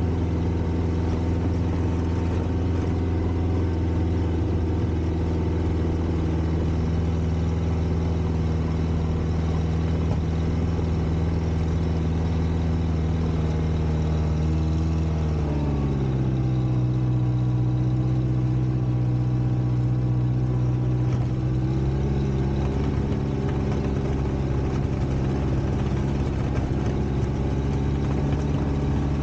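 1960s Kalmar baggage tractor's Volvo four-cylinder petrol engine running steadily. About halfway through the engine speed drops, and about six seconds later it picks up slightly.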